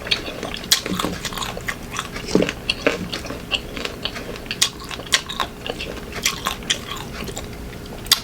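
Close-up crunching and chewing of raw green mango: irregular crisp crunches, several a second, as the firm unripe flesh is bitten and chewed.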